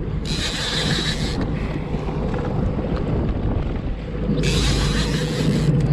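Fishing reel drag buzzing as a hooked Spanish mackerel pulls line off, in two runs of about a second each, the second near the end. Under it a steady low rumble of the boat and wind on the microphone.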